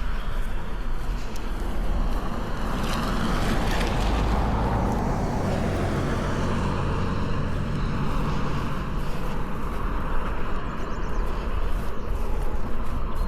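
A car passing on the road: its tyre and engine noise swells and then fades, loudest about four to six seconds in, over a steady low rumble.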